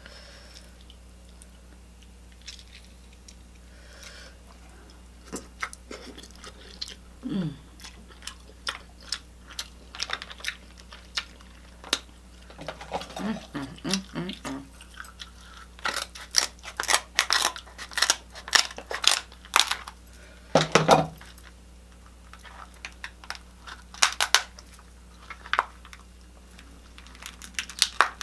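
Close-miked eating of king crab legs: chewing with many sharp clicks and cracks. The clicks are sparse at first and come thick and fast in the second half.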